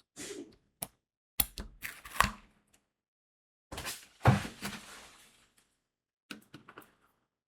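Diamond painting work sounds: crystal beads and the drill pen clicking and tapping onto the sticky canvas in a few short clusters, with a longer rustling patch about four seconds in that holds the loudest click.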